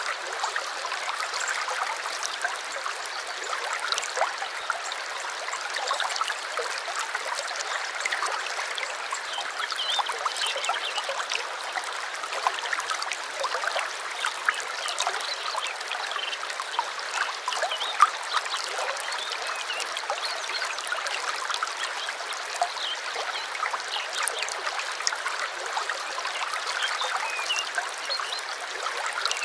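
Small stream trickling and gurgling steadily over stones.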